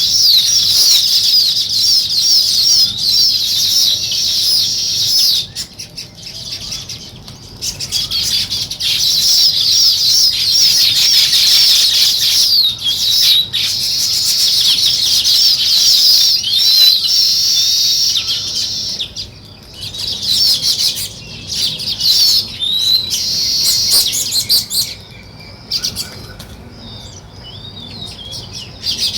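Many small birds chirping and chattering together in a dense, overlapping stream of high, quick notes. It thins out briefly a few times, most noticeably for a few seconds near the end.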